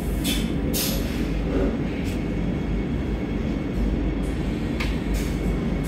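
Inside a Vande Bharat Express electric train coach as it rolls slowly along a platform: a steady low rumble, with a few short hissing sounds about a third of a second in, near the second mark and near the end.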